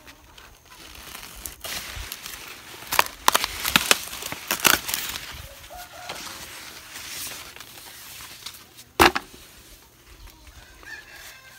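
Dry corn leaves and husks rustling and crackling as corn plants are pushed through and handled, with a sharp crack about nine seconds in. Chickens cluck in the background.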